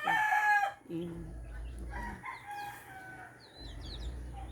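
A rooster crowing, the crow ending under a second in. Later, small birds give quick high chirps.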